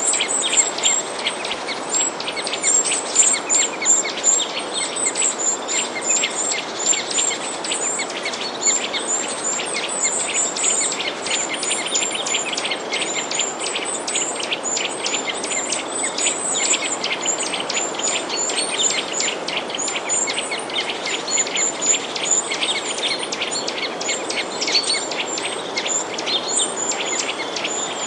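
A dense chorus of small birds chirping continuously, many short high chirps overlapping one another over a steady background hiss.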